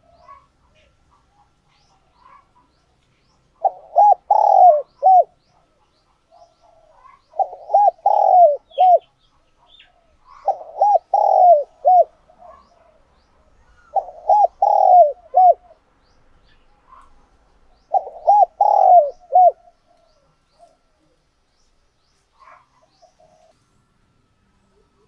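Spotted dove cooing: five phrases of several coos each, one about every three to four seconds, stopping about five seconds before the end. It is a tame male's call used as a decoy to get newly caught doves cooing.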